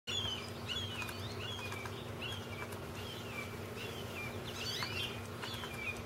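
A bird chirping over and over: short, high, falling notes, about two a second, with a cluster of extra chirps about five seconds in.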